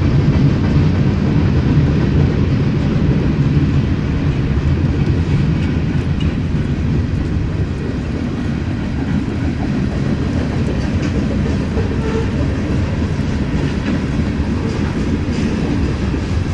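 Freight train cars rolling past on the rails: a steady low rumble of steel wheels on track, with occasional faint clicks.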